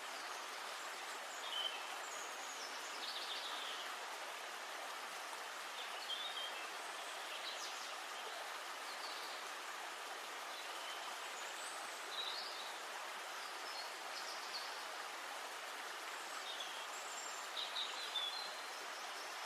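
Steady rush of running water, with small birds chirping briefly on and off.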